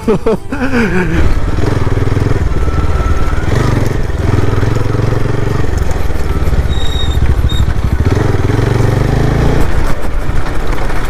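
Bajaj Pulsar 180F motorcycle with an aftermarket Akrapovic slip-on exhaust, running while being ridden, its exhaust note rising and falling with the throttle.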